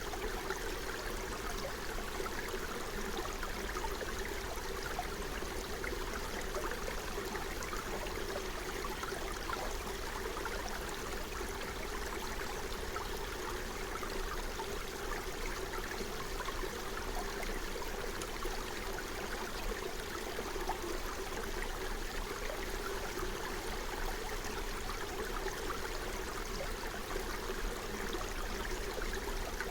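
Forest stream flowing and babbling steadily over its bed.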